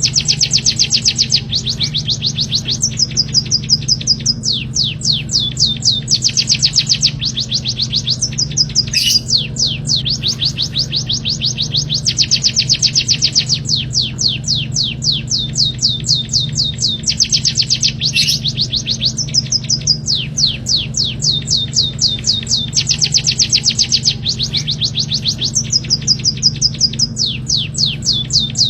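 Small songbird singing fast, high trills of repeated sharply falling notes, about ten a second, in phrases of a few seconds, with a steady low hum underneath.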